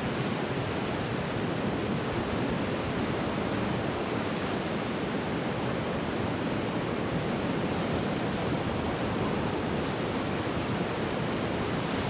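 Steady rush of ocean surf breaking on a rocky shore, an even noise with no distinct waves standing out.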